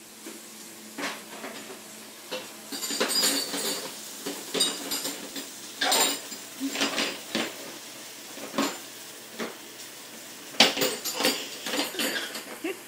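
Dishes and cutlery clattering and clinking in an open dishwasher as a toddler pulls them about, in irregular bursts of knocks and rattles; the loudest clatter comes near the end.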